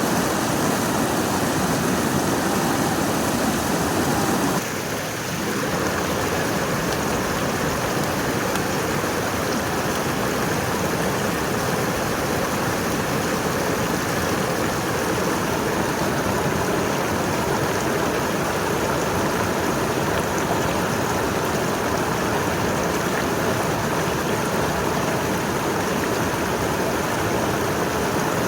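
Rushing water flowing steadily, a full even roar with no let-up. About five seconds in the sound cuts to another stretch of rushing water with a slightly different tone.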